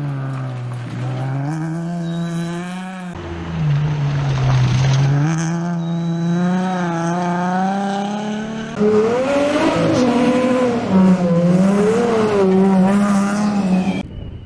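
Nissan 350Z rally car's engine revving hard under load, its pitch climbing and dropping as it accelerates, shifts and lifts. It runs through three short clips with abrupt cuts about three seconds in, near nine seconds and shortly before the end.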